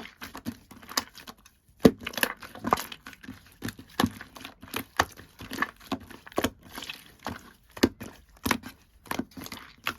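Two-layer slime being squished and stretched by hand, giving an irregular run of sticky pops and crackles, the sharpest pop about two seconds in.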